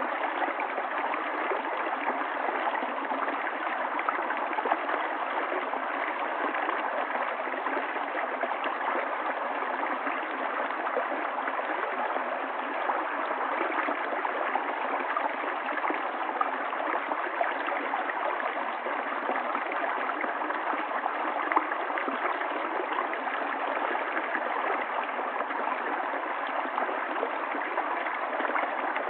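River water running and gurgling over stones, a steady rush with small splashes flickering through it.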